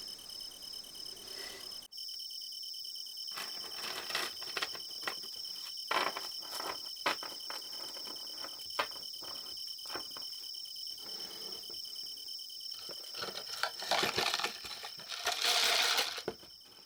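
Crickets chirping steadily under a string of small sharp clicks and taps from the handling of small plastic model parts and tools, with a louder spell of crinkling and rustling near the end.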